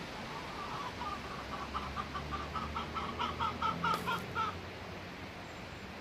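A bird calling a quick series of short, repeated notes, about four or five a second, growing louder for some four seconds and then stopping. Steady wind hiss underneath.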